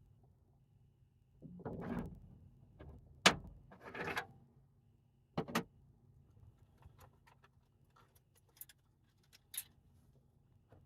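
Small gear being handled and set down: rustling, a sharp click about three seconds in, a knock a couple of seconds later, then scattered light clicks and a jingle of keys.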